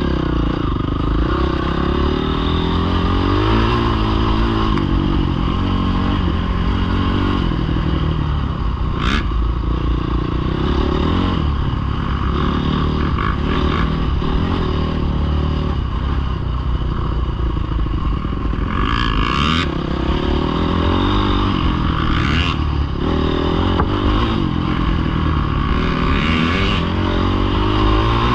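Dirt bike engine revving up and dropping back again and again as the bike is ridden, with a few sharp clattering knocks along the way.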